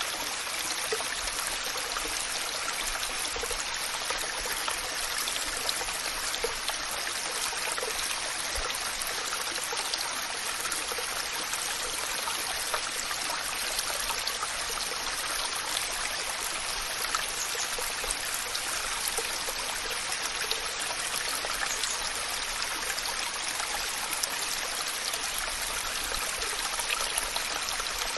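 Waterfall: water falling and splashing in a steady, even rush of hiss, with no breaks.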